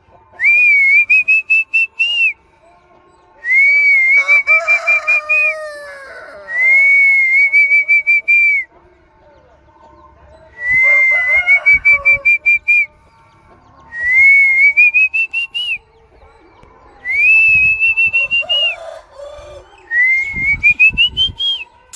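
Trilled whistling, seven long calls of about two seconds each, every few seconds, each rising slightly in pitch: the whistle used to call the chickens to their feed. Fainter, lower calls sound under some of the whistles.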